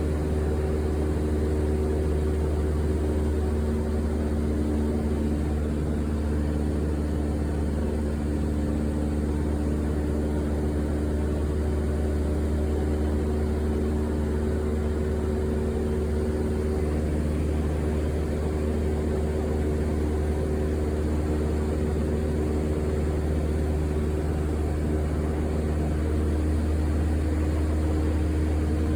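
Airplane engine drone heard inside the cabin: a steady low hum with several constant tones above it, unchanging throughout.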